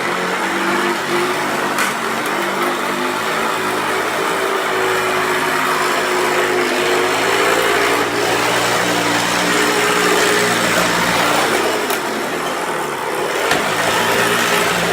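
A 1994 Hoover Turbopower 2 Autosense vacuum cleaner running steadily, with a rough, slightly wavering motor and brush-bar whirr and a few light clicks. It is running on a borrowed belt, and the owner suspects the roughness lies in the brush-roll bearings.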